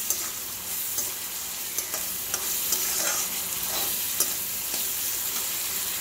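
Chopped onions, green chillies and curry leaves sizzling in hot oil in a metal kadai, with a steady high hiss. A perforated steel spatula scrapes and clicks against the pan every second or so as they are stirred.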